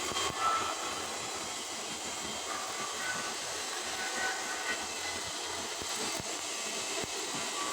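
Stick (SMAW) welding arc crackling and hissing steadily as a 7018 low-hydrogen electrode burns along a carbon steel pipe joint.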